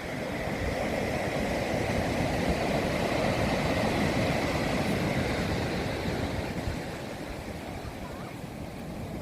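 Rough sea surf: waves breaking and washing ashore, a steady rush that swells over the first few seconds and eases off near the end.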